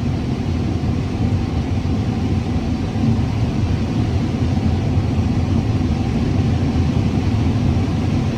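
Combine harvester running steadily while picking corn, a continuous low engine rumble.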